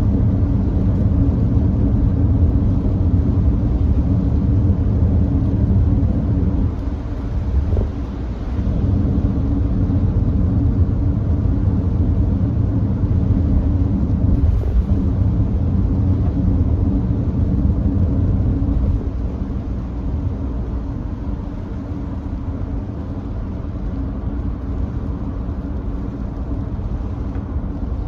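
Nissan Note e-POWER driving at steady expressway speed on a wet road: a steady low rumble of tyre and road noise. It dips briefly about eight seconds in and runs a little quieter for the last third.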